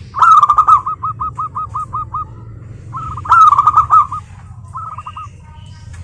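Zebra doves singing their rapid staccato cooing songs, several birds overlapping. A run of about a dozen notes slows toward its end, a second loud, dense run follows about three seconds in, and a short phrase comes near the end.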